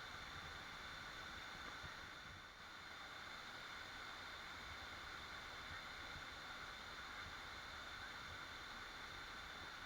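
Waterfall rushing as a faint, steady, even hiss of falling water.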